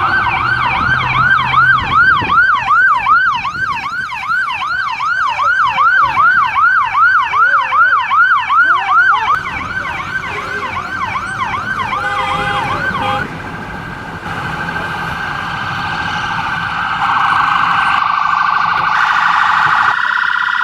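Emergency vehicle siren sounding a fast yelp, a rising sweep repeated about twice a second. About thirteen seconds in, the pattern changes to steadier siren tones, which warble toward the end.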